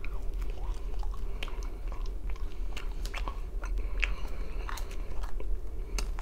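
A person biting and chewing a strip of pizza crust close to the microphone: irregular crisp clicks of the crust breaking between the teeth.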